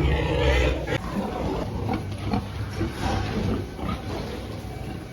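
Pigs grunting in short, irregular calls, with a low steady hum underneath.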